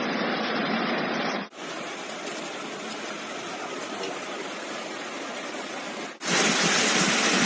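Floodwater rushing through streets: a steady, even rush of water, changing suddenly about a second and a half in and again near the end as one recording cuts to another.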